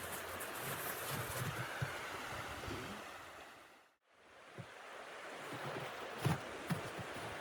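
A steady rushing noise, most likely wind, fades out to silence about four seconds in and fades back up. A few soft knocks and clicks come in the second half.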